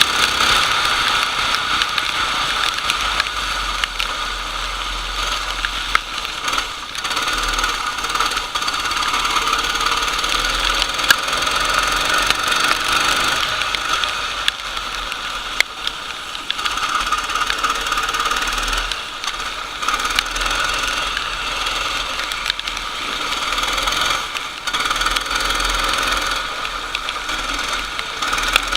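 Racing kart engine running hard at high revs, dropping off briefly several times and picking up again, as when lifting for corners and accelerating out, over a steady harsh noise.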